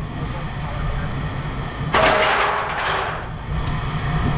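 An engine running with a steady low rumble; about two seconds in, a sudden loud clatter lasting about a second and a half, typical of scrap metal being handled.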